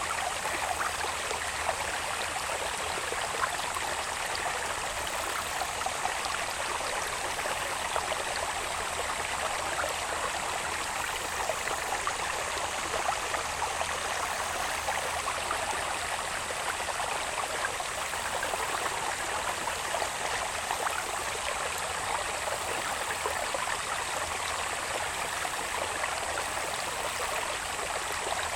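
Small irrigation channel's water babbling and trickling steadily, with a thin, steady, high insect buzz above it.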